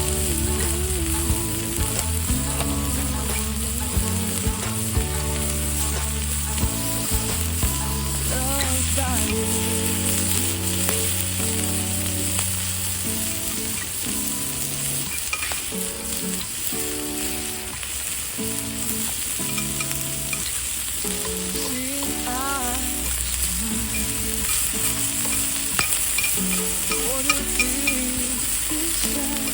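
Food sizzling and frying on a hot iron griddle plate, a steady crackling hiss with scattered small pops and clicks. Instrumental music plays underneath.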